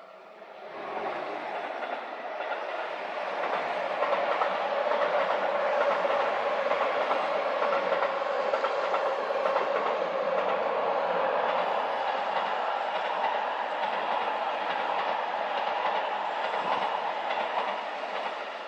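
Keihan Main Line electric train crossing a steel railway bridge: a steady noise of wheels on rails and bridge girders that builds up about a second in, holds, and eases slightly near the end.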